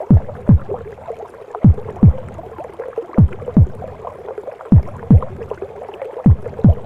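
Mother's heartbeat as heard in the womb: a slow double thump, lub-dub, each beat dropping in pitch, about every second and a half, five beats in all, over a continuous muffled rushing, gurgling womb noise.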